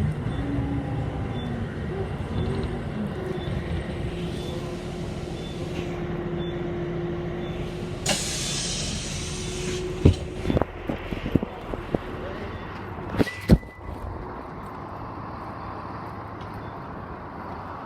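City bus heard from inside: engine and drivetrain running with a steady hum and whining tones, then a burst of compressed-air hiss about eight seconds in, followed by several knocks and clunks. After that it settles to a quieter hum.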